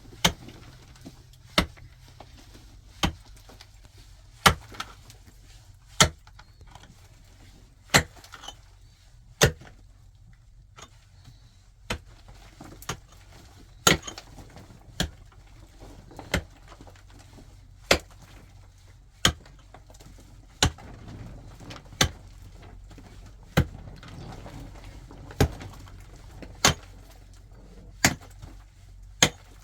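Repeated sharp wooden strikes, about twenty in all at roughly one every one and a half seconds, as in chopping wood.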